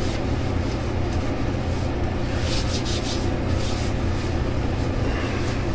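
Hands rubbing aftershave balm into the skin of the face, a few brief brushing strokes about halfway through, over a steady low hum.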